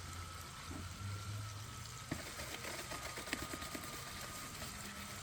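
Water running steadily, with a faint steady high tone under it and a few light knocks about two and three seconds in.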